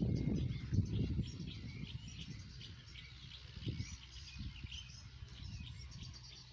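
Small birds chirping and twittering in many quick, high calls, over a low gusty rumble on the microphone that is loudest in the first second or two.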